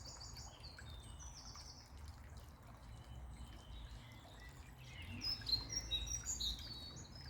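Small birds chirping: a short run of high chirps at the start and a busier burst about five seconds in, over the quiet steady sound of a bubbling brook.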